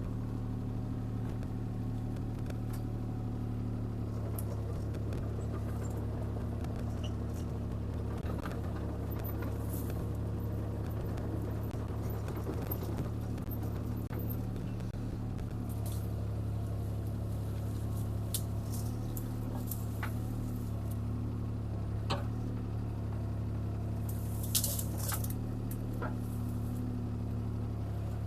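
CAT 303C CR mini excavator's diesel engine running steadily under working load, with scattered sharp cracks and knocks as brush and limbs are worked.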